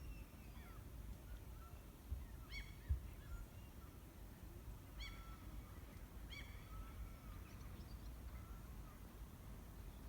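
Birds calling, faint: short calls every second or two whose pitch arches up and down, over a low wind-like rumble, with a brief low bump about three seconds in.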